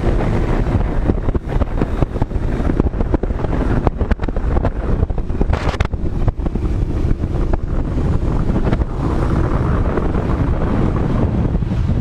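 Wind buffeting hard on the microphone over a running motorcycle on the move: a loud, uneven low rumble broken by many gusty knocks.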